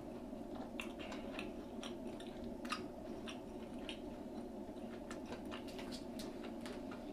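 A person chewing food close to the microphone: scattered short wet mouth clicks over a steady low background hum.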